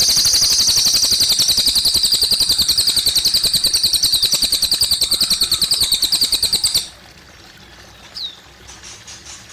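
Cililin bird singing a loud, high, rapid trill of about ten notes a second that stops abruptly about seven seconds in, leaving softly trickling water and a short high chirp.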